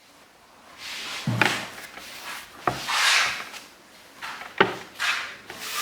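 Rustling and rubbing, with three sharp knocks about a second and a half apart.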